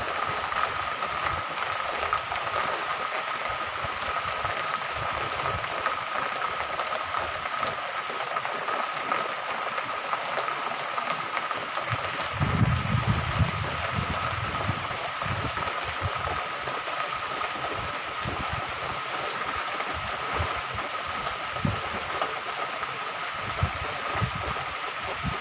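Steady rain falling, an even hiss, with a thin steady high tone under it and a few low rumbles about halfway through.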